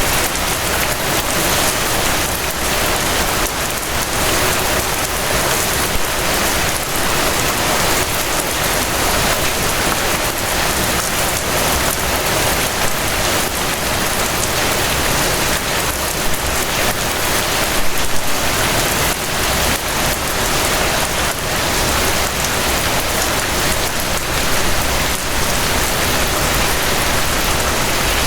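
Steady rain falling on a surface, an even, dense patter with no breaks.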